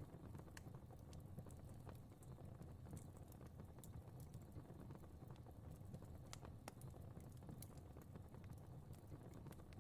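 Fire crackling faintly: irregular sharp pops and snaps over a low, steady rumble.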